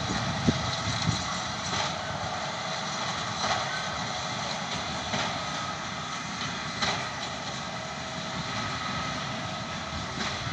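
Tractor and baler at work, a steady mechanical drone with faint scattered clicks.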